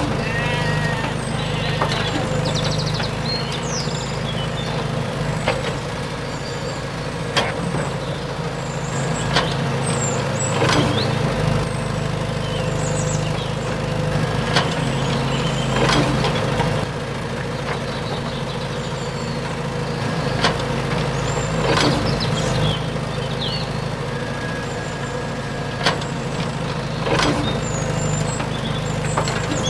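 Small electric motor of a DIY model tractor running steadily, with a dozen or so sharp knocks at irregular intervals.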